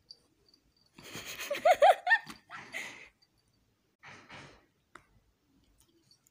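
A person laughing breathily: a burst of breathy giggles with a few quick rising-and-falling voiced notes, then a short breathy exhale about four seconds in.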